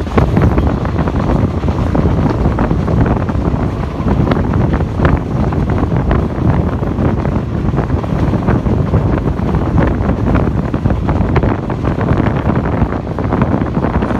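Wind rushing hard over the microphone out of an express train coach's open door as the train picks up speed, over the steady rumble of the coaches running on the track.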